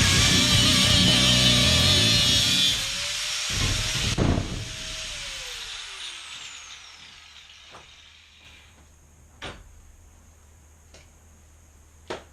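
Background rock music mixed with a power tool running, which stops about three seconds in and winds down with a falling whine. A few light knocks follow.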